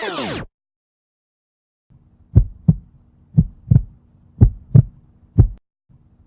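Heartbeat sound effect: paired low thumps, lub-dub, about once a second over a faint low hum, starting about two seconds in. Before it, a sweeping electronic music effect cuts off suddenly, followed by a short silence.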